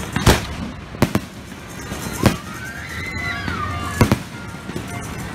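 Aerial fireworks shells bursting overhead: about six sharp booms, the loudest early, with close pairs about a second in and about four seconds in, over a steady din of crackling and more distant bangs.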